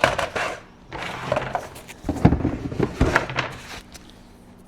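Several short bursts of clattering and knocking, about one a second, from wood and tools being handled.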